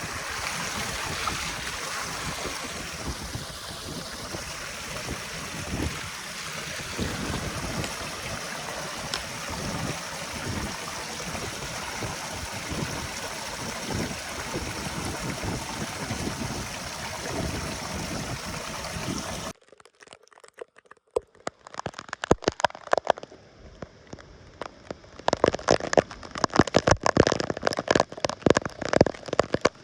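Floodwater rushing steadily through a cleared drain. About two-thirds of the way in it cuts off abruptly, and scattered sharp clicks follow that thicken into a dense crackle near the end.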